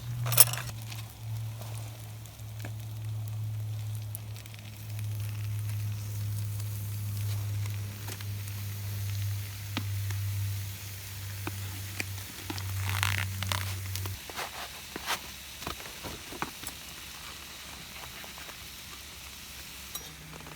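Meat sizzling and frying on a hot iron griddle over a campfire, a steady hiss with occasional sharp pops and crackles.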